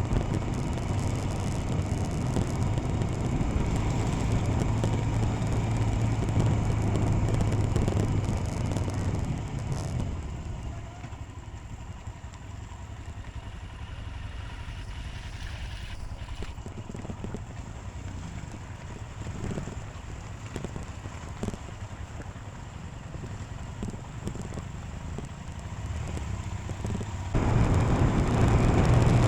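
Royal Enfield Himalayan single-cylinder motorcycle engine running on the move, with road and wind noise. The sound drops to a quieter level about ten seconds in and comes back up sharply near the end.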